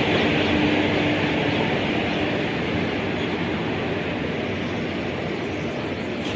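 A train running on the line, its steady noise slowly growing quieter as it moves away.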